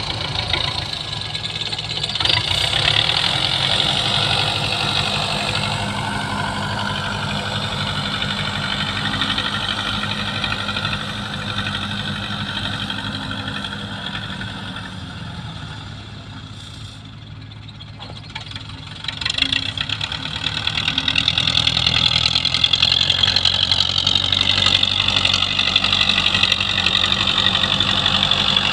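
Belarus tractor's diesel engine running steadily under work. It quietens about two-thirds of the way through, then picks up again and runs louder toward the end.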